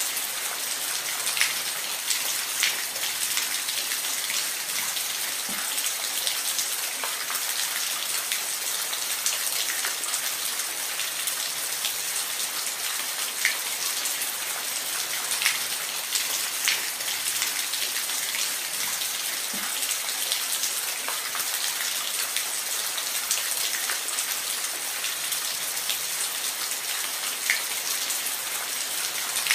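Steady rain hiss with scattered individual drops ticking on a surface.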